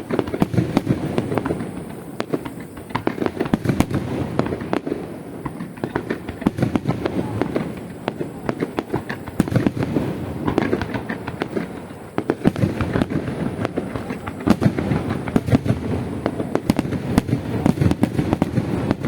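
Fireworks display: a dense barrage of shells bursting and crackling, many sharp reports a second, swelling and easing in loudness.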